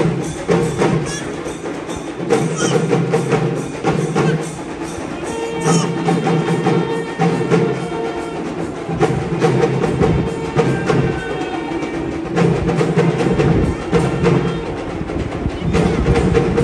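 Live percussion music: rapid, continuous drum and wood-block-like strikes over a steady droning tone.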